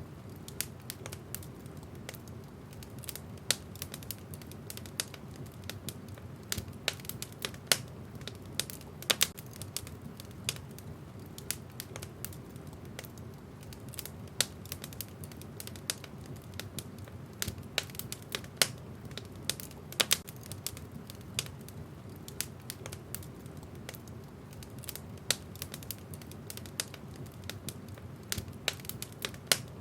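Wood fire crackling in a fireplace: irregular sharp pops and snaps of burning logs, several a second, over a low steady rumble of the flames.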